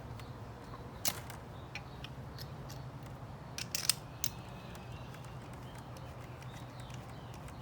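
A few sharp metallic clicks and light clatter, one about a second in and a small cluster near four seconds, from a stainless steel hose clamp being handled and fitted onto a cut garden hose end, over a steady low hum.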